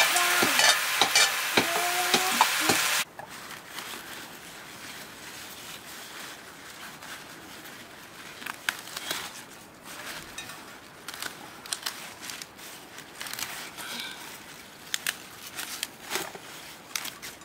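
Greens sizzling as they fry and are stirred with a ladle in an iron wok over a wood fire. The sizzle cuts off suddenly about three seconds in. After it come quiet rustles and small snaps as leafy greens are picked and dropped into a metal bowl.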